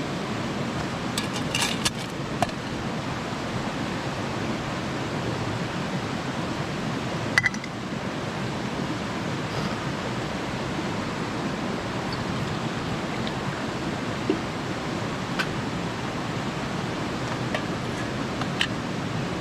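Mountain stream rushing steadily. A few scattered light clinks and knocks sound over it, the sharpest about seven seconds in.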